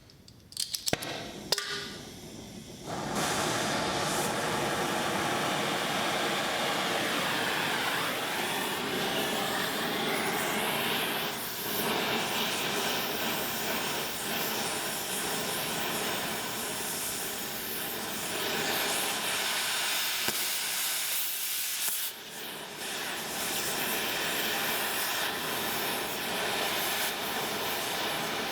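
A few sharp clicks near the start, then an oxy-acetylene cutting torch hissing steadily, dipping briefly about three-quarters of the way through.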